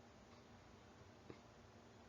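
Near silence: faint room tone with a single soft click about a second in.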